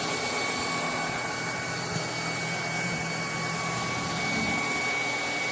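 FABULETTA cordless brushless stick vacuum running steadily on high speed: a rush of air with a steady high whine.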